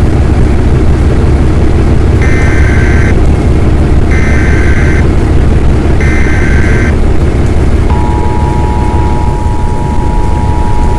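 Emergency Alert System weather alert from a weather radio: three one-second screeching data bursts about two seconds apart, then the steady two-tone attention signal starting about eight seconds in. A constant low vehicle rumble runs underneath.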